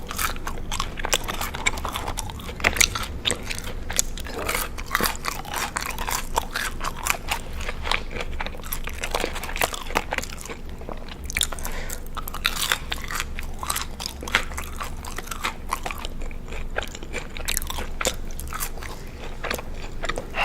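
Close-miked biting and chewing of crunchy food: a dense, irregular run of sharp crunches.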